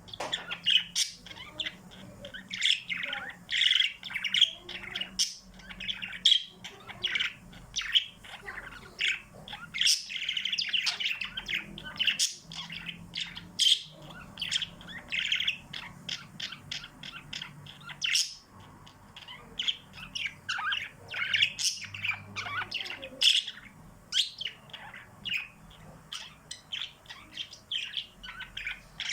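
A group of small pet birds chirping and twittering without pause, many quick calls overlapping.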